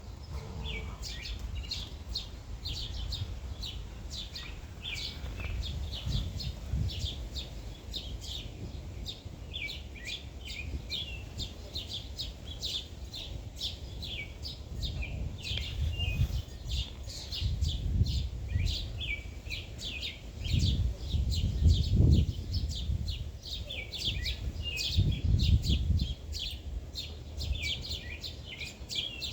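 Many small birds chirping together in a dense, continuous twittering, over a low rumble that swells and fades several times.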